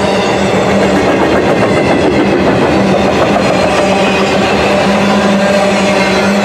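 Intermodal freight train's trailer and container cars rolling past at speed: a loud, steady rumble and clatter of steel wheels on rail, with a steady hum running under it.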